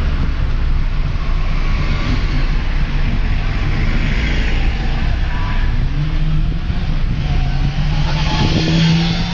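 Car engine running with the front of its air filter box removed; the engine note steps up in pitch about six seconds in and climbs slightly toward the end, as under light acceleration.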